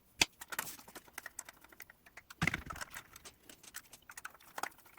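Faint, irregular small clicks and taps from handling a plastic HO-scale passenger coach while driving in a couple of small screws to hold its body on, with a short cluster of clicks about halfway through.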